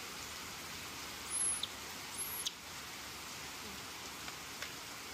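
Steady heavy rain falling, with two short, very high squeaks rising above it about a second and a half and two seconds in.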